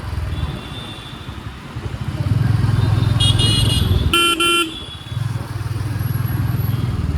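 Motorcycle engine running under way in traffic, with a vehicle horn giving a short toot about three seconds in and then two quick beeps a second later.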